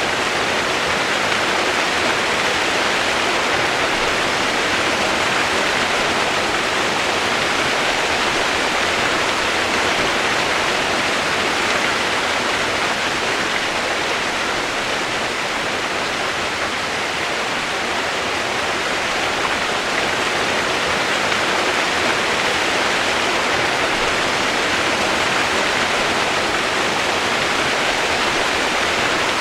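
Steady rushing water, an even unbroken wash of noise with no separate splashes or other events.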